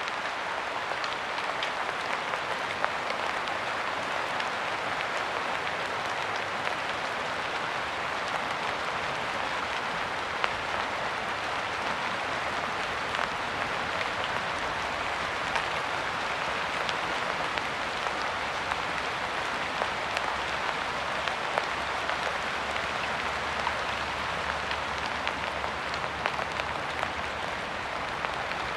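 Steady rain falling: an even hiss with scattered sharper drop impacts.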